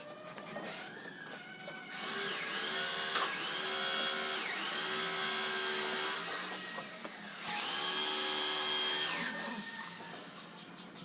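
Electric drill running in four short runs, each spinning up and then winding down.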